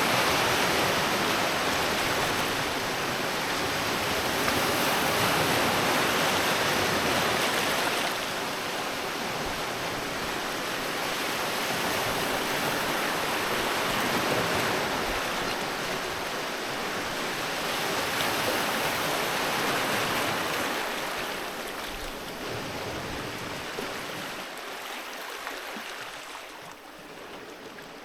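Sea waves washing onto a beach: a steady rush of surf that swells and ebbs in long surges of several seconds each, dying down near the end.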